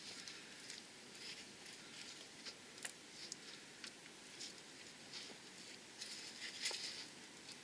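Faint, irregular small metal clicks and light scraping from hand work on the car's gearbox linkage, with a few sharper clicks near the middle and end.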